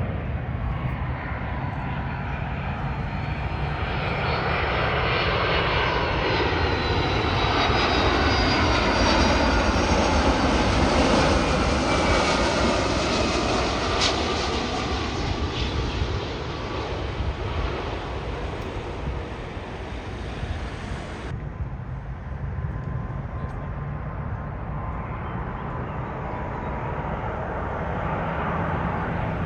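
Large jet airliner flying low past on its landing approach. The engine roar builds, with a sweeping whoosh, to its loudest about a third of the way in, then fades. About two-thirds of the way through, the high hiss drops away suddenly, leaving a lower rumble.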